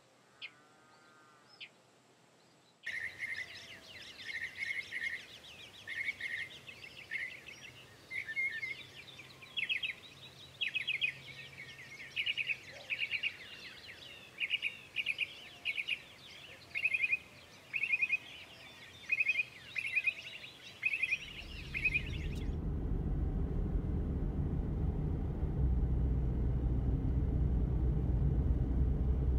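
Repeated chirping calls from wild creatures, in short bursts about once a second, with a quieter shrill chorus under them. About 22 seconds in they cut off, and a vehicle's low, steady rumble takes over.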